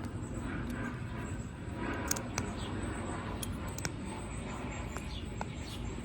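Small plastic clicks and taps from handling a lip gloss tube, a few scattered sharp ticks, over a steady low background hum.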